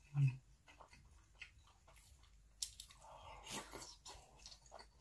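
Close-miked chewing of a mouthful of stir-fried spicy pork, with many small wet mouth clicks. A short, deep sound comes just at the start and is the loudest moment.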